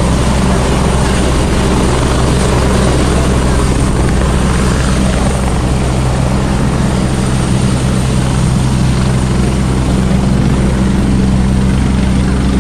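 Helicopter's rotor and turbine engine running loud and steady: a low, even drone under a wide rush of rotor wash.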